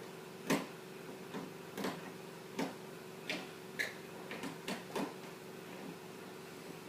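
Irregular sharp clicks and taps, about eight of them a few tenths of a second to a second apart, as a screwdriver works on an old printer's plastic casing, over a faint steady hum.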